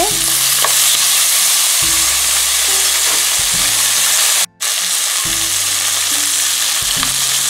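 Onion, green capsicum and garlic sizzling steadily in hot oil in a nonstick pan. The sound cuts out for a moment about four and a half seconds in.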